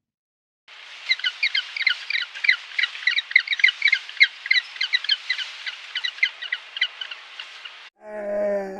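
A bird chattering: a rapid, dense run of short high chirps, several a second, lasting about seven seconds. Near the end it gives way to a lower, drawn-out animal call.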